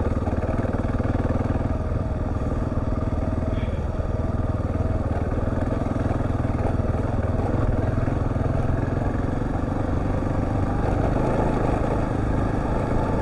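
Husqvarna TR650's single-cylinder engine running at a steady pace as the motorcycle is ridden along a sandy track, under a constant wash of riding noise.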